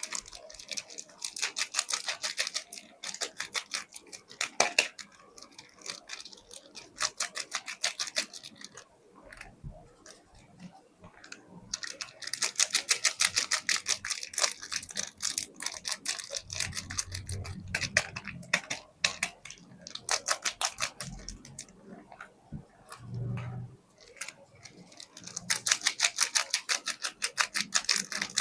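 Soap packaging being handled and opened, making rapid, crisp clicking and crackling in spells with short pauses between. A few soft, dull knocks come in the second half.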